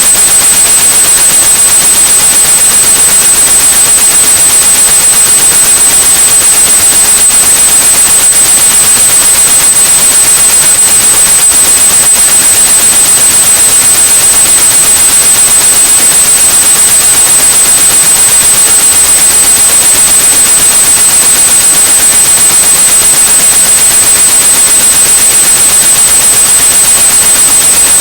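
Steady, loud white-noise hiss with a continuous high-pitched pure tone at about 8100 Hz laid over it, unchanging throughout. It is a synthetic masking sound used to cover tinnitus.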